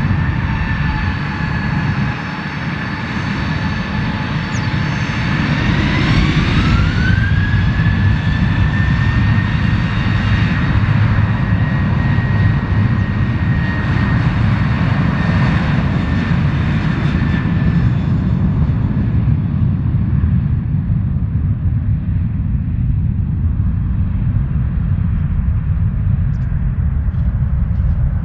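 Jet airliner engines running over a heavy, steady rumble, with a high whine that rises sharply about six seconds in as the engines spool up to higher thrust. The whine then holds steady and fades away in the last third, leaving the low rumble.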